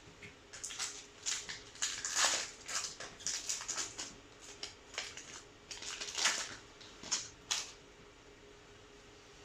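Foil booster-pack wrapper crinkling and trading cards being shuffled and slid against each other by hand, a run of short rustles with two louder swishes, stopping about eight seconds in.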